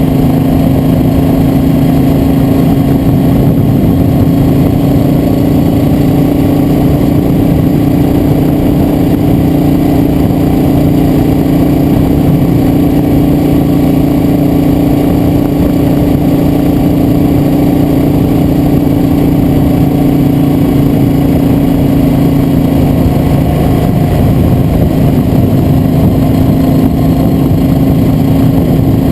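Vehicle engine running at a steady cruising speed, with a constant hum that holds one pitch throughout.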